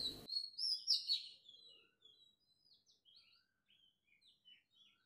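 Small birds chirping in short, high, quick notes, loudest in the first second and a half, then fainter and sparser.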